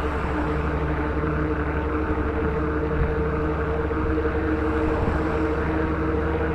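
Steady drone of a truck at highway speed, heard from a road bike drafting close behind it: an even engine hum with a couple of held tones, over continuous road and rushing-air noise.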